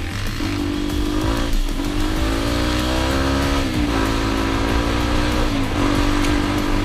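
Dirt bike engine running under way, its pitch shifting up and down every couple of seconds with throttle and gear changes, with low wind rumble on the microphone.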